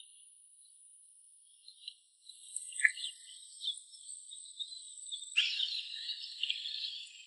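Insects trilling: a steady high trill with scattered chirps, joined suddenly about five seconds in by a louder, denser insect chorus.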